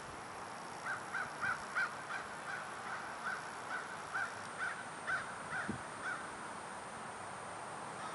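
A bird calling in a series of about a dozen short, evenly spaced notes, a little over two a second, starting about a second in and stopping about six seconds in.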